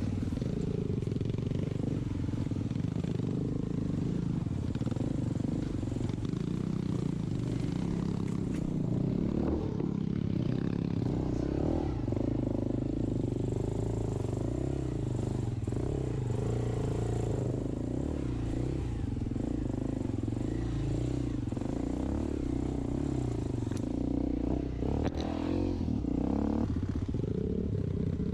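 Enduro dirt bike engine running continuously, its pitch rising and falling as the throttle is worked on and off.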